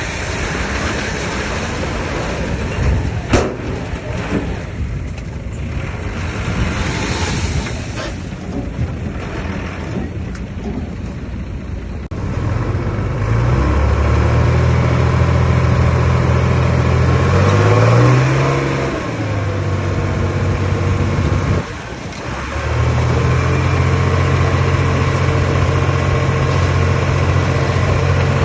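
Heavy earthmoving machine's diesel engine working. For the first dozen seconds there is a noisy mechanical clatter with one sharp knock about three seconds in. Then the engine comes up to a loud, steady run, revs up and back down around eighteen seconds, dips briefly near twenty-two seconds and settles back to a steady run.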